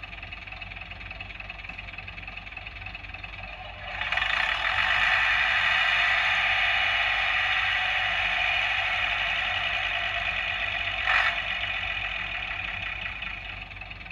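Digital sound-chip recording of a British Rail Class 101 diesel multiple unit's engines starting up and running at idle, played through the small onboard speaker of a Bachmann OO gauge model. The engine sound swells about four seconds in as more engine noise joins, then runs steadily, with one brief sharper sound later on.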